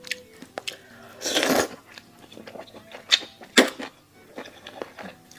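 Close-up eating sounds: a person biting and chewing food, with short crunchy clicks throughout, a louder wet, noisy bite a little over a second in, and two sharp crunches around three seconds in.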